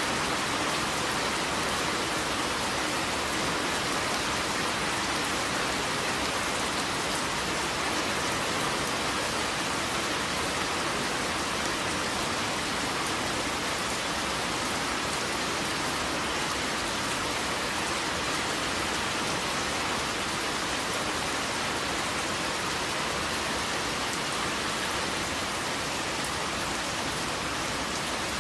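Steady heavy rain falling, an even hiss with fine drop patter and no change in intensity.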